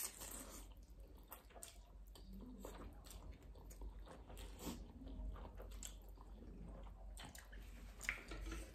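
Faint slurping and chewing of spicy instant noodles, with many small scattered wet mouth clicks.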